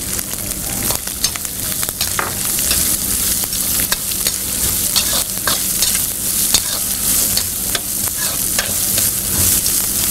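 Chopped onions sizzling in hot oil in a brass kadai, stirred with a metal spoon that scrapes and clicks irregularly against the pan.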